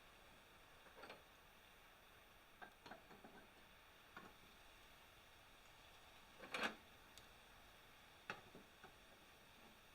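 Near silence with a faint steady hiss, broken by a handful of scattered light clicks and knocks, the loudest about two-thirds of the way through.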